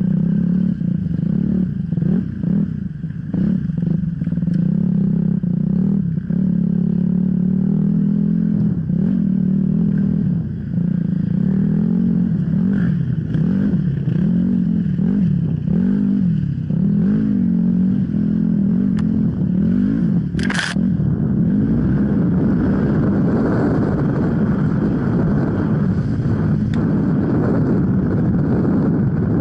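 Off-road enduro motorcycle engine running under constantly changing throttle, its pitch rising and falling, with clattering knocks over rough ground and a brief hiss about twenty seconds in.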